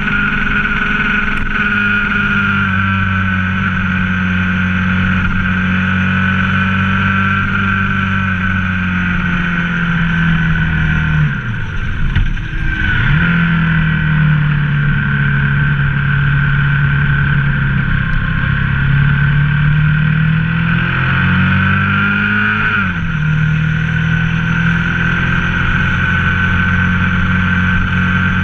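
Ducati ST4S's 996 cc V-twin running steadily under way. About twelve seconds in the revs drop sharply and pick up again at a lower pitch, as at a gear change, and they shift again around twenty-three seconds.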